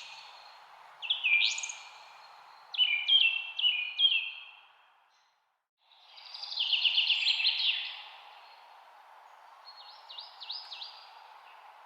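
Songbirds singing in short whistled phrases over a steady background hiss, with a rapid trill about six seconds in and fainter notes near the end. All sound drops out for about half a second just before the trill.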